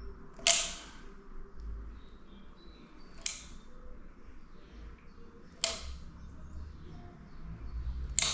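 Nail gun firing four times, each a sharp crack with a short hiss, about two and a half seconds apart, as the skirting boards are nailed in place.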